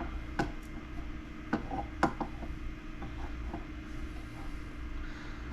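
Light clicks and taps from an egg being handled at the candling lamp, the sharpest about two seconds in, over a steady low hum.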